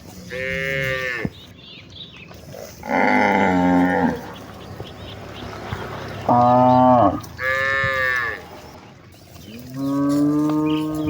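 Cattle mooing: five long moos in turn, about one to two seconds apart and at different pitches, each dropping in pitch as it ends.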